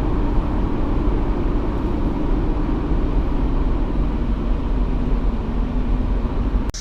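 An off-road vehicle running steadily on the trail, a dense continuous rumble heavy in the low end. It cuts off abruptly near the end.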